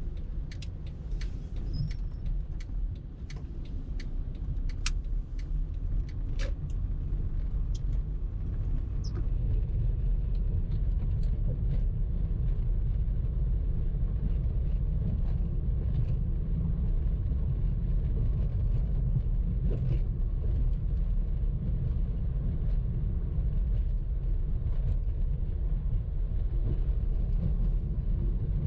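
Car driving: a steady low road-and-engine rumble that builds over the first several seconds as the car gets under way, then holds level. A run of sharp clicks about two a second sounds during the first few seconds.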